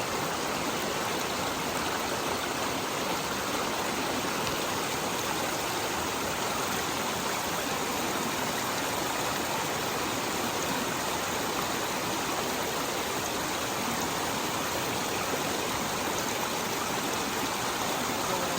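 Creek water running steadily, an even rushing noise with no change throughout.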